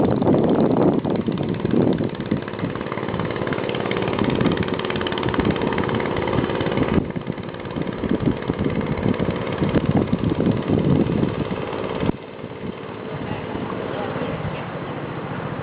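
The motor of a small 10-foot boat running steadily, with wind gusting on the microphone. The sound drops suddenly in level about twelve seconds in.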